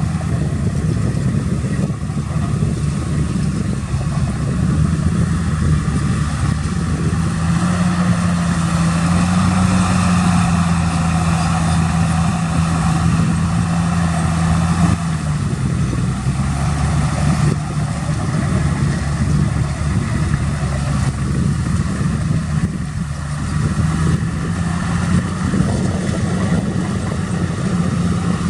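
Large diesel engine of heavy earthmoving machinery running under load. Its revs rise a few seconds in, hold high, then drop back about halfway through and stay steady.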